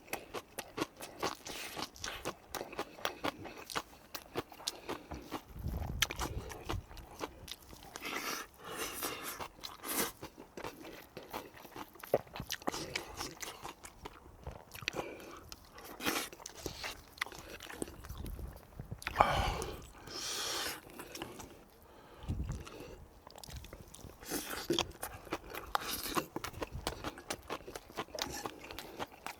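A person chewing and eating food close to the microphone: a steady run of small crunches and wet mouth clicks, with a few louder bites.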